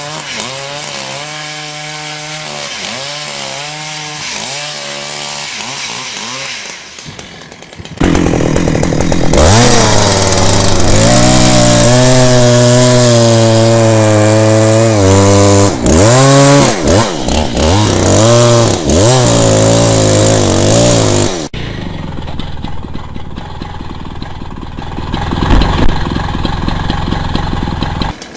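Chainsaw cutting wood. Its engine pitch dips repeatedly under load and climbs back as it revs. It becomes much louder abruptly about eight seconds in and drops back just as abruptly past twenty-one seconds.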